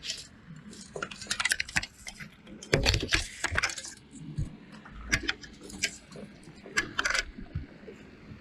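Irregular clicks, clinks and knocks of gear being handled aboard a fishing kayak, with a few low thumps about three and five seconds in.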